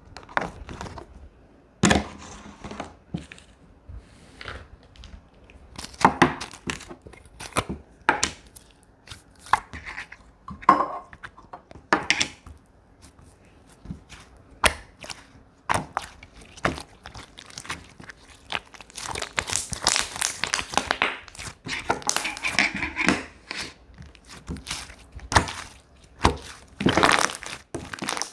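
Slime being squished and stretched by hand: irregular sharp pops and clicks, with a denser stretch of crackling about two-thirds of the way through.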